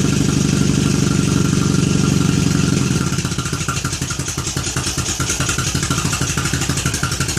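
1937 Zündapp KS600's flat-twin four-stroke engine running steadily, then about three seconds in dropping to a slower, uneven idle with each firing beat heard separately.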